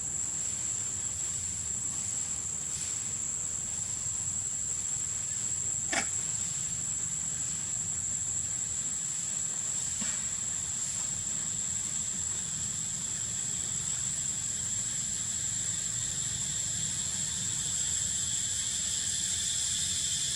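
Steady high-pitched drone of insects, with a second, lower insect buzz joining near the end over a low rumble. A single sharp click about six seconds in.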